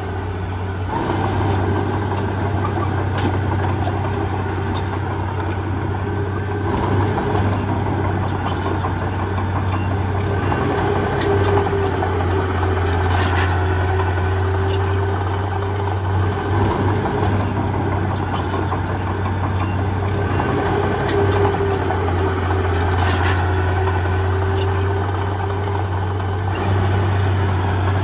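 Heavy diesel engine of earthmoving machinery running steadily at a constant speed, with a faint whine that wavers a little in pitch and scattered light clicks; it grows slightly louder about a second in.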